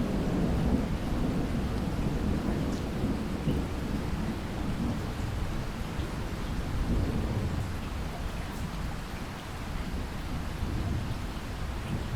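Steady rainfall with a low rumble of thunder rolling through it. The rumble is strongest in the first couple of seconds, swells again about seven seconds in, and eases off toward the end.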